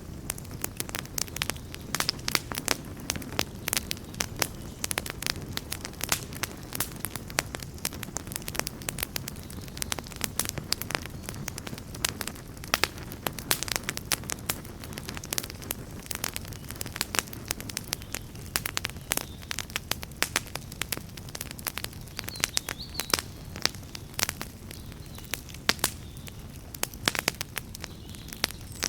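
Wood fire burning with dense, irregular crackling and popping over a steady low rumble of flames.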